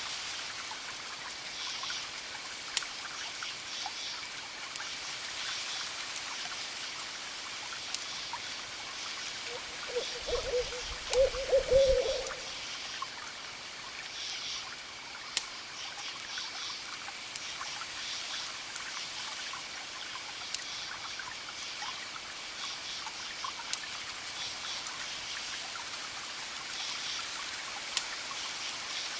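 Campfire crackling with sharp pops, over crickets chirping in repeated pulses and a steady wash of distant waves. About ten seconds in, a low wavering call, the loudest sound, lasts about two seconds.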